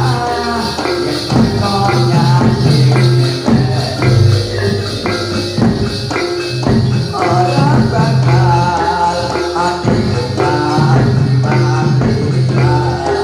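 Live jathilan accompaniment music: a Javanese percussion ensemble with regular drum strokes and jingling percussion, a steady low tone underneath and a wavering melody on top.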